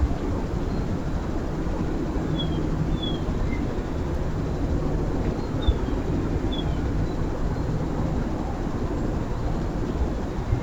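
Steady low outdoor rumble, with a few faint, short bird chirps over it; four of the chirps are high and slide slightly down in pitch.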